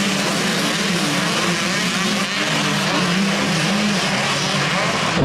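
Several small dirt-bike engines running and revving together, their pitch rising and falling as the riders work the throttle.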